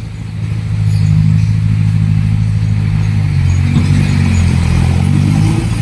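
Heavy diesel engine of earthmoving equipment running. It grows louder about a second in, then revs up in pitch a few seconds later.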